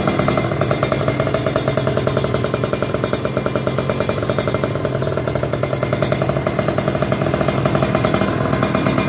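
Two-stroke Kawasaki Ninja 150 single-cylinder engine idling steadily through an aftermarket Creampie stainless-steel exhaust, a rapid even beat with only slight rises and falls in level.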